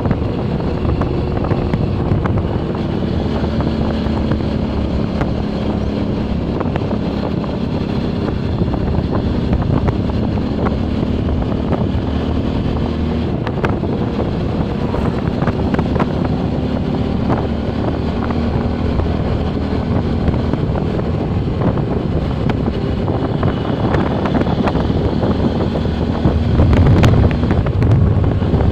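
Motorcycle engine running steadily while riding, with wind rushing over the microphone. The low rumble grows louder near the end.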